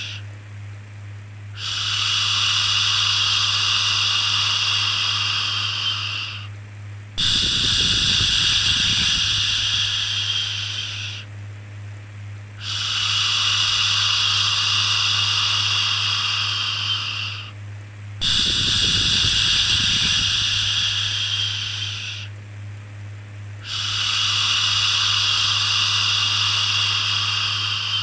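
A person's voice shushing in long, drawn-out 'shhh' sounds, each about four to five seconds long and repeated every five and a half seconds in a steady soothing rhythm, over a steady low hum.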